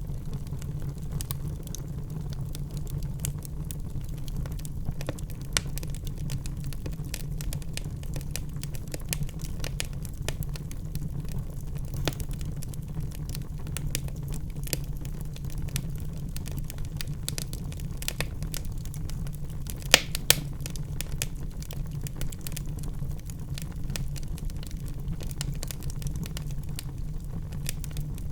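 Wood fire burning in a fireplace: a steady low rumble of flames with continual small crackles and snaps, and a sharper louder pop about two-thirds of the way through.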